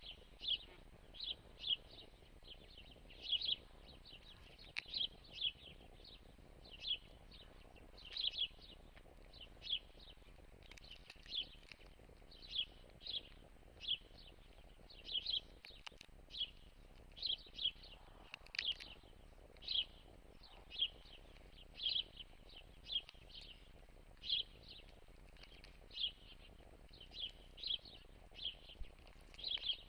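A bird chirping over and over, short high chirps coming about one or two a second with small pauses between clusters.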